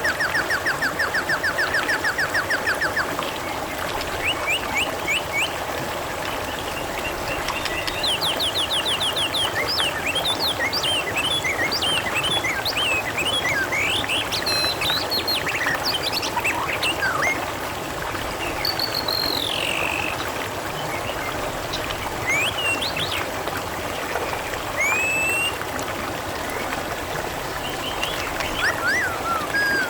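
Steady trickling, babbling water with small birds chirping and twittering over it. A fast, even trill runs through the first three seconds and starts again right at the end.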